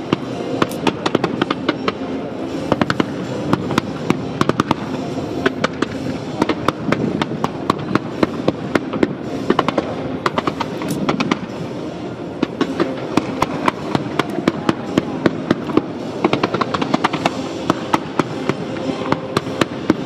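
Fireworks display: a dense, continuous barrage of bangs and crackles, several reports a second, from low shells and fountains fired in quick succession.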